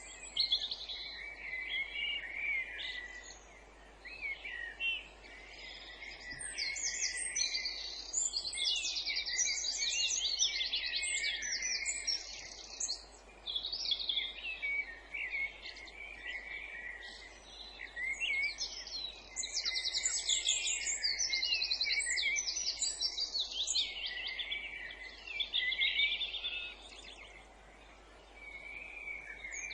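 Several songbirds singing over one another: rapid trills and quick runs of repeated high notes, swelling and dipping in loudness every few seconds.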